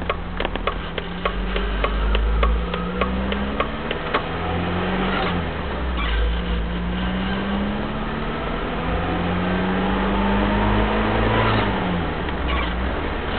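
Engine of a 1983 Mitsubishi Pajero, a four-cylinder turbo-diesel, heard from inside the cab while driving. Its pitch climbs steadily, falls away about five seconds in, climbs again, and drops once more near the end. A light rhythmic ticking runs through the first few seconds.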